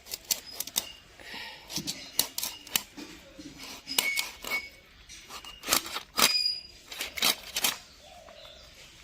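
A dao blade chopping and cutting through a chital fish: an irregular run of sharp chops and clicks, the loudest a little past halfway, tailing off near the end.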